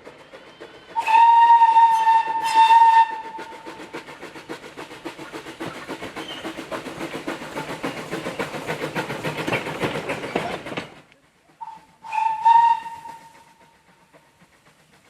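Steam locomotive whistle, a shrill single note held for about two seconds, then a fast, even rhythm of exhaust beats as the engine works. The beats stop abruptly, and a second short whistle sounds about a second later.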